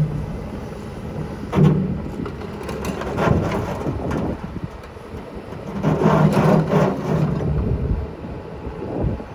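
Komatsu PC228USLC-10 excavator's diesel engine running with a steady low hum, swelling in three surges of a second or so as it takes load.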